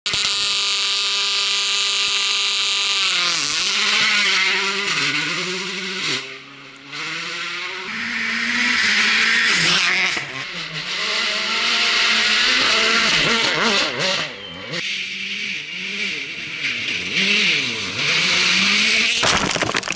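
Rally car engine run hard, its pitch climbing and falling again and again through gear changes and lifts off the throttle. It eases off to quieter running about a third of the way in and again about three quarters of the way through.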